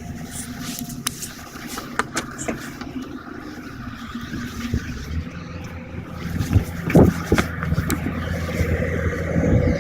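A running engine hums steadily, with scattered sharp clicks and a louder knock about seven seconds in.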